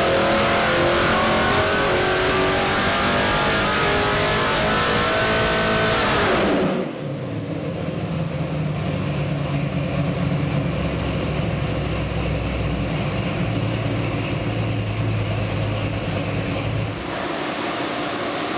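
Ford 347 small-block V8 with a four-barrel carburetor running on an engine dyno. Its pitch climbs steadily at high rpm in a dyno pull, then falls sharply about six and a half seconds in as the throttle closes. It runs on at a low steady speed and eases a little quieter near the end.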